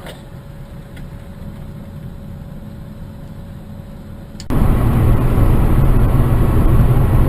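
Car engine and road noise heard from inside a moving car, a steady low rumble that abruptly becomes much louder about four and a half seconds in.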